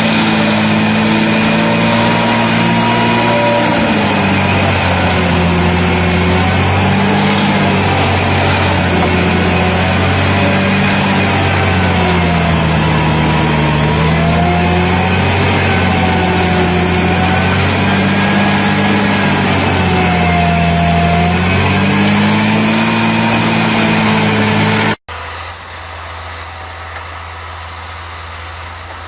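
Heavy diesel machinery engine running under changing load, its pitch rising and falling again and again. About 25 seconds in it cuts abruptly to a quieter, steady low engine hum.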